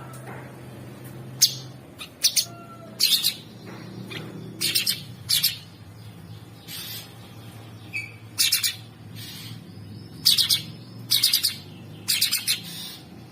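Cucak sungkok songbird calling: a run of short, loud, harsh chirps, often in quick pairs, roughly one burst every second, over a faint steady low hum.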